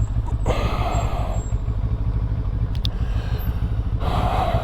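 Benelli TRK 702 parallel-twin motorcycle engine running steadily on the move, heard from the rider's position, with two short rushing swells of noise about half a second in and near the end.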